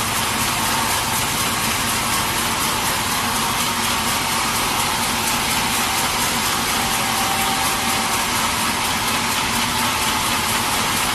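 Sawmill machinery running steadily: an even, unbroken rush of noise with a faint low hum underneath.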